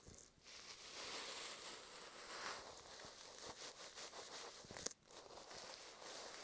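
Bonten (fluffy ear-pick puff) brushing over an earphone microphone wrapped in masking tape, making faint, scratchy, crinkling rustles with a light tap about five seconds in.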